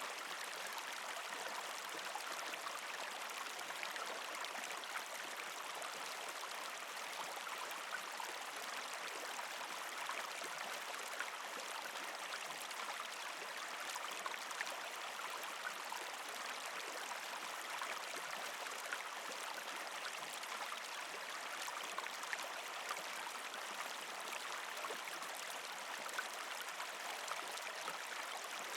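Partially frozen creek flowing: a steady rush of water with gurgling and trickling over rocks, dotted throughout with small sharp splashes and ticks.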